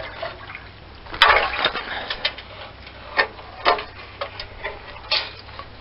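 Old exhaust muffler full of water being tipped and handled to drain it: irregular light knocks and spatters, with a louder clatter about a second in.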